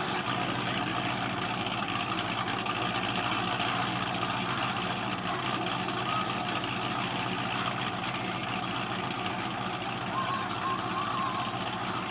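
A vehicle engine idling steadily under a constant hum of street background noise.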